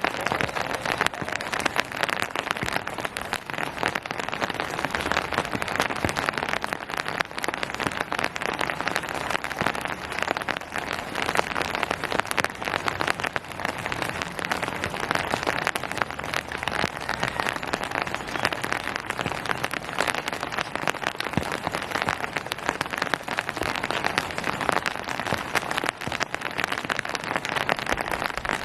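Steady rain falling, a dense, even patter of many drops on surfaces.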